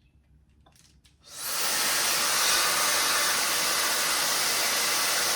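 High-speed hair dryer brush switched on about a second in, its motor spinning up within half a second to a steady rushing airflow.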